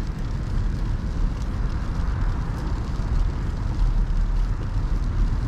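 Wind buffeting the microphone while cycling: a steady low rumble with a hiss over it and a few faint ticks.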